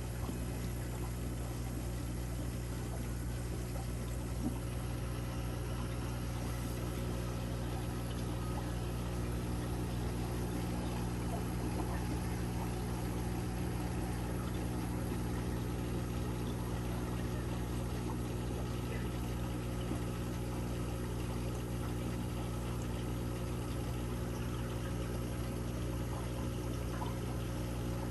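Aquarium filtration running: a steady wash of moving, pouring water over a constant low hum from the pump.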